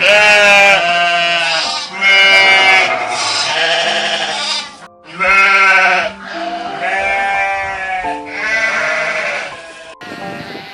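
Sheep bleating, about five long wavering bleats one after another, over background music.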